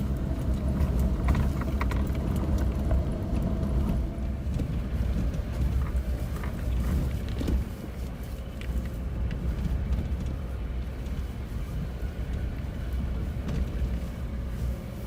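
Off-road vehicle driving on a rough unpaved mountain forest road, heard from inside the cabin: a steady low engine and tyre rumble with scattered small knocks and rattles. The rumble eases a little about halfway through.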